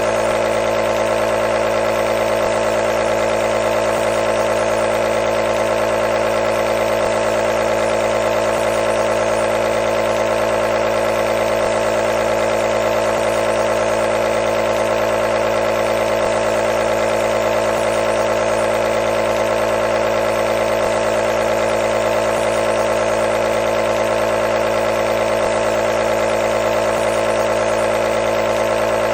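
Nebulizer compressor running with a steady, unchanging hum.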